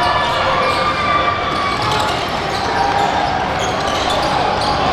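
Basketball game noise in a gym: a ball dribbling on the court amid general crowd chatter, with scattered short high squeaks and ticks.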